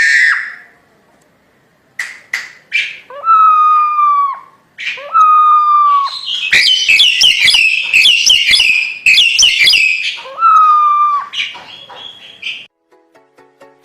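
Jalak hongkong myna singing loudly: clicks and drawn-out whistled notes, a long burst of rapid harsh chattering, then another whistle. Music starts just before the end.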